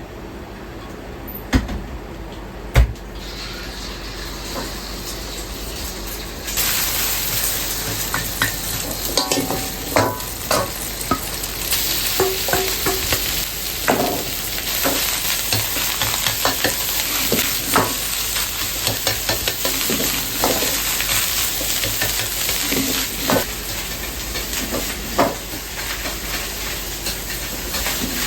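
Stir-frying on a hot pan: two sharp knocks, then about six seconds in a loud sizzle starts and keeps going, with a metal utensil repeatedly scraping and clinking against the pan.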